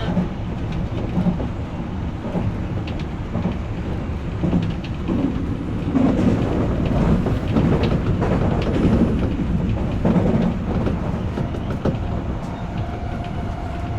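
Odakyu electric commuter train running along the line, its wheels rumbling steadily on the rails with occasional knocks over rail joints. A faint steady whine comes in near the end.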